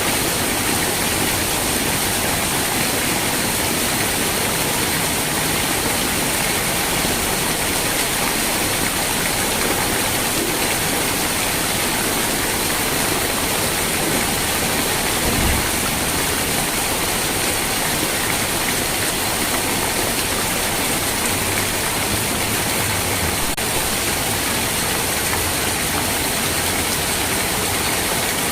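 Steady heavy rain, a dense even hiss, with one brief low thump about halfway through.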